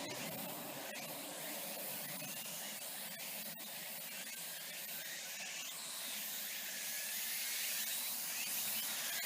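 Steady high-pitched outdoor hiss of forest ambience, with faint repeated chirps and a few light clicks.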